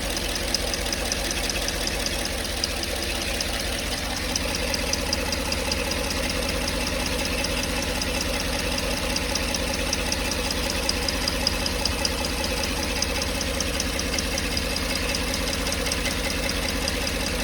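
GM 5.3-litre V8 engine idling steadily with a fast, even tapping in time with the engine, an odd tapping noise whose cause is not known.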